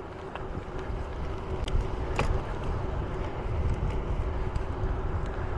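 Wind rumbling on the microphone and tyre noise from a bicycle being ridden, with a faint steady hum and scattered light clicks, the loudest about two seconds in.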